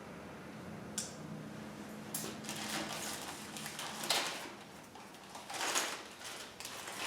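Handling noises from unpacking: a sharp click about a second in, then several short rustling, scraping swishes as packaging and parts are moved about.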